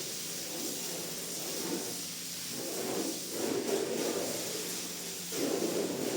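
Several slow rubbing or scraping strokes worked over a rug, each swelling and fading, over a steady hiss and a low hum.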